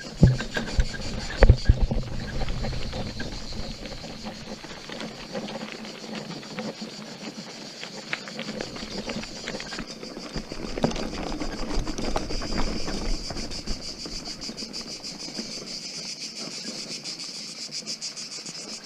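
A steady, high-pitched insect buzz runs throughout, with sharp knocks and rattles scattered through it. The loudest knocks come in the first two seconds.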